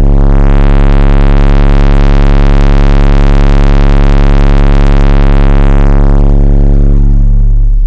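A 35 Hz bass test tone played through four 12-inch car subwoofers, heard inside the truck cab as a very loud, steady, distorted buzz with many overtones, at over 150 dB. The upper overtones swell in about half a second in and fade away near the end.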